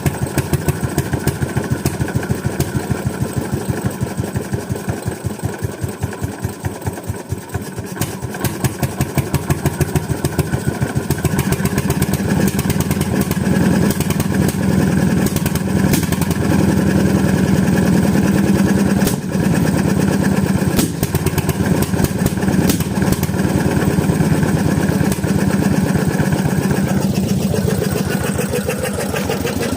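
Bernard Moteurs W14 15 HP engine running, its individual exhaust beats clearly spaced. The beats slow over the first several seconds, then pick up speed and settle into fast, steady running.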